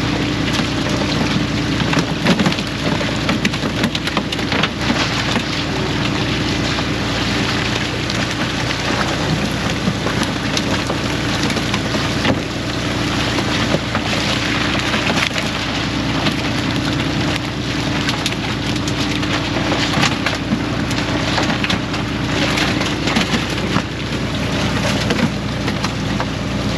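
Fishing boat engine running steadily under a constant crackling spatter of splashing water.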